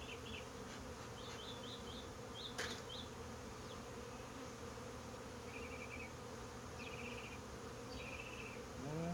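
Honeybee colony buzzing steadily around an opened hive during a frame inspection, the bees a little feisty. Short high chirps sound over the hum.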